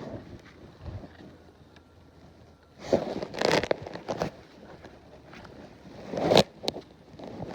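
Bee-suit fabric rustling and scraping against a phone microphone inside the suit pocket, in two bursts of a second or so, with a sharp click after the second.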